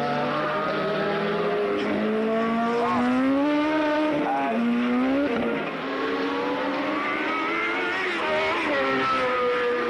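1983 Formula One racing car engines running hard, their pitch climbing and dropping several times, with a sharp drop about halfway through.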